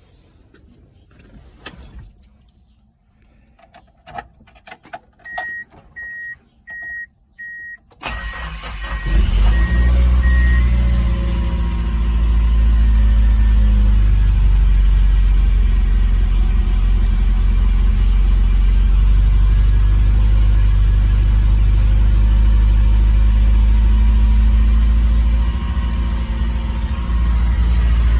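Car engine cold start: a few clicks and a high electronic chime beeping in short pulses, then about eight seconds in the engine fires and settles into a loud, steady idle. The chime stops soon after the engine catches.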